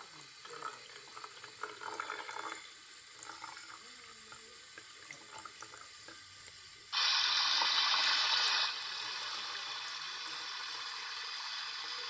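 LG washing machine filling with water for its rinse cycle: light sloshing and clicks at first, then about seven seconds in water suddenly rushes in, loud for under two seconds, before settling into a steady flow.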